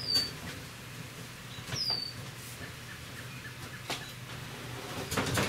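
A pantry unit being shifted: short high squeaks that drop in pitch, each with a knock, then a quick run of knocks and clunks near the end.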